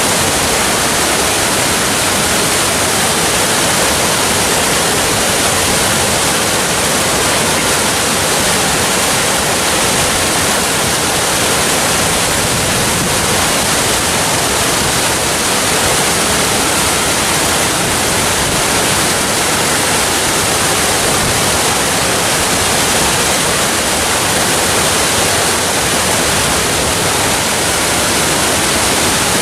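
Waterfall: a steady, even rush of falling water, hissy and full, with no breaks or changes.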